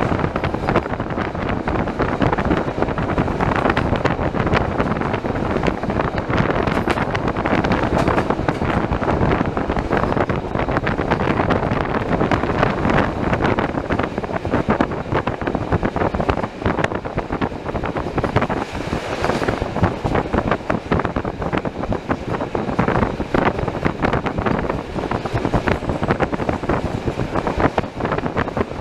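Beovoz commuter train running at speed, heard from inside the carriage: a steady rumble of wheels on rail with dense, continuous clatter.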